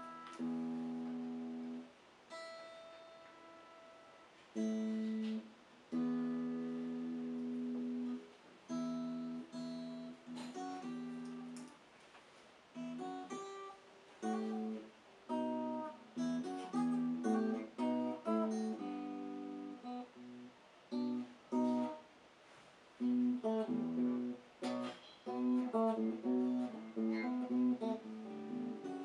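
Cort X-series guitar played solo, with no other instruments. Slow chords and notes are left to ring for a second or two each, then from about twelve seconds in come quicker picked notes and short phrases.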